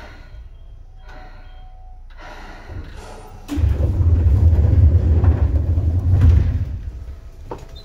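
Seibu 2000 series electric train, heard from inside a motor car: quiet at first, then a deep, loud rumble starts suddenly about three and a half seconds in, holds for about three seconds and fades away.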